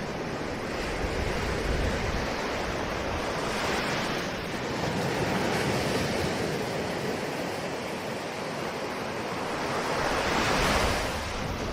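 Ocean surf: a continuous wash of waves, with one wave swelling about four seconds in and a louder one building and breaking near the end.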